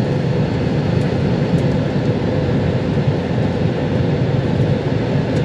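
Steady rumble of an Airbus A320's engines and airframe heard from inside the passenger cabin, with a faint steady hum over a deep, even noise.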